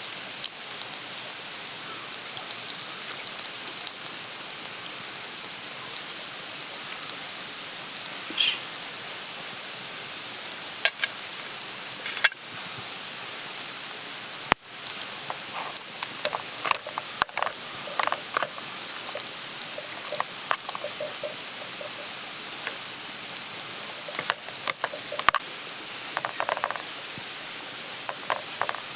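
Campfire crackling: a steady hiss with scattered pops and light clicks, busier in the second half.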